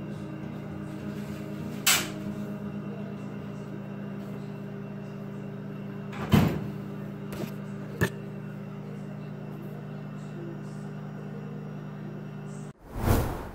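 Top-load washing machine running with a steady motor hum, broken by a few single knocks and a louder clatter near the end.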